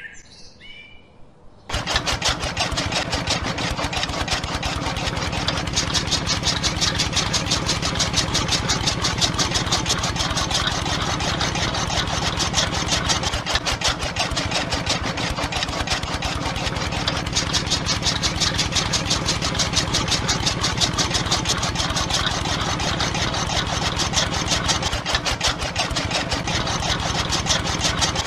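Small electric motor of a miniature DIY chaff cutter switched on about two seconds in, then running steadily with a rapid rattling buzz as it spins the cutter's flywheel.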